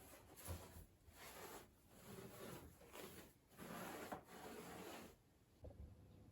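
Faint scrubbing: a brush rubbed back and forth in about half a dozen strokes that stop about five seconds in, followed by a light knock.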